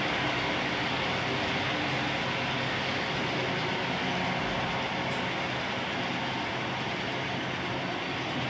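Model trains running on a large layout: a steady whirring rumble of motors and wheels on track.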